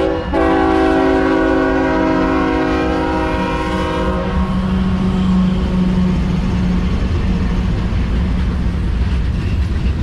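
Diesel freight locomotive's multi-chime air horn sounding a chord, a brief break just at the start and then a long blast that ends about four seconds in. After it comes the steady rumble of the locomotives and the passing train.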